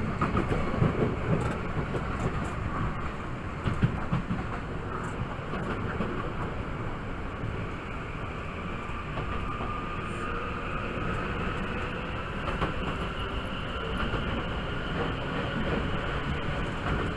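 Tokyu 8500 series electric train running at speed, heard from inside the carriage: steady rumble of wheels on rail with a few knocks in the first few seconds, then a faint traction-motor whine that slowly rises in pitch.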